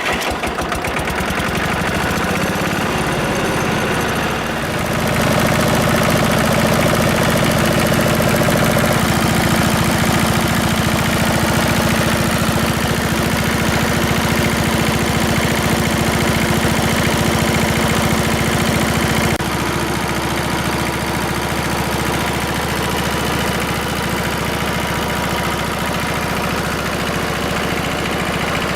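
Kubota L13G tractor engine idling steadily, just after being started. Its speed and loudness step up about five seconds in and settle back down about nineteen seconds in.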